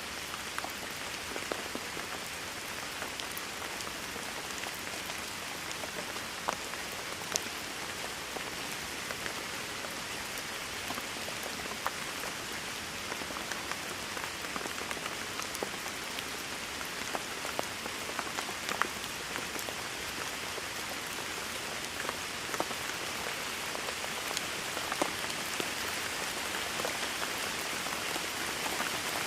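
Steady heavy rain falling, a dense even hiss with scattered individual drop ticks and splats on a nearby surface.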